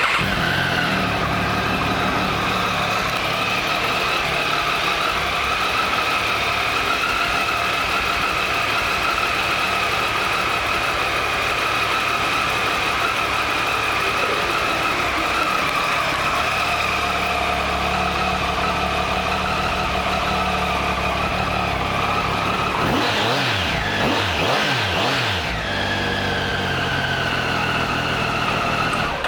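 Triumph Tiger 800 XC's three-cylinder engine idling steadily. Near the end it is blipped a few times, the revs rising and falling quickly, before it settles back to idle.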